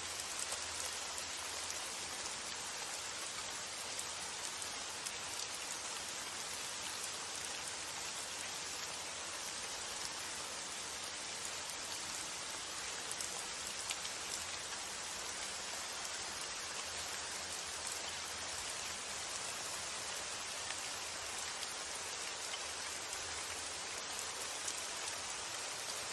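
Steady rain falling, a constant hiss with scattered individual drops ticking sharply over it.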